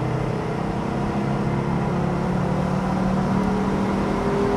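Audi Cabriolet 2.3E's five-cylinder engine pulling under hard acceleration, heard from inside the cabin, its pitch rising steadily as the revs climb.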